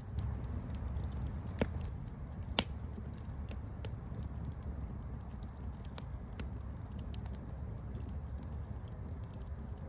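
Campfire burning with a steady low rumble and scattered crackles, two sharper pops from the burning wood about one and a half and two and a half seconds in.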